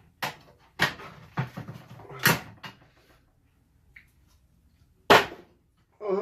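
Knocks and clacks from handling and prying apart an Xbox 360 console: about six in the first three seconds, then a pause, then one louder knock about five seconds in.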